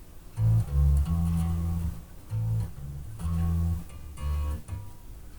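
Electric bass guitar, freshly restrung, played through a bass amp and cab: a short phrase of about eight low plucked notes, some short and some held, that stops a little before the end.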